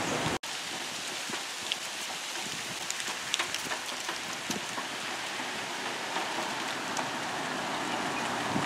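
Steady hiss of light rain falling on the street, with scattered ticks of drops. It comes in after an abrupt cut about half a second in.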